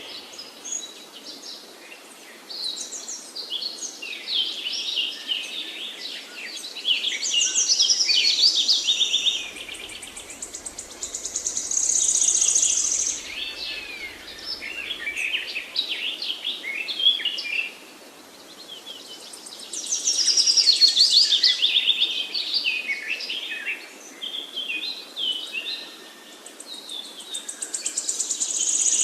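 Songbirds singing: a mix of high chirps and fast trilled phrases, with a loud burst of song coming around every eight seconds and quieter chirping between.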